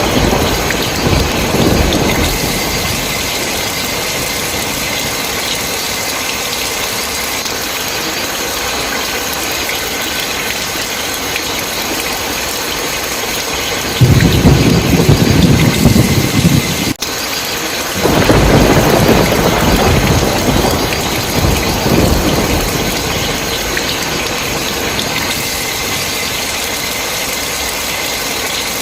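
Heavy, steady rain with rolls of thunder: a rumble fading out in the first couple of seconds, then a loud low rumble from about halfway that cuts off abruptly, followed at once by another that fades away over several seconds.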